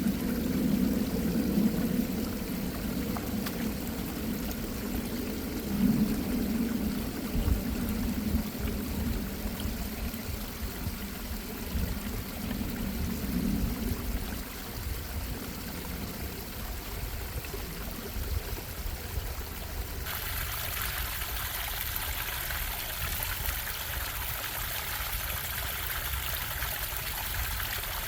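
Stream water running and bubbling over rocks. About two-thirds of the way through, the sound changes abruptly to a brighter, hissier rush of water.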